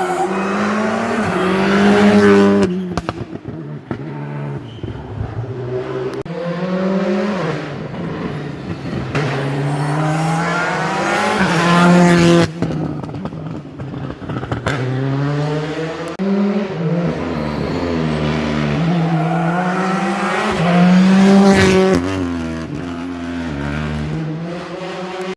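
Rally car engine under full acceleration, its pitch rising through each gear and dropping sharply at each upshift, repeated many times, with a few sharp cracks between gears. The engine is loudest about two seconds in, about twelve seconds in and near the end.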